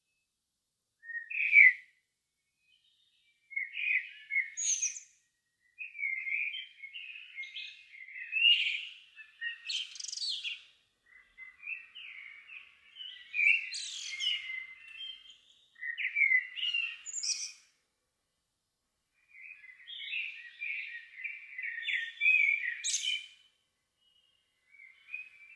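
A songbird singing at dusk: a series of short warbled phrases with brief pauses between them, several ending in a high, thin note.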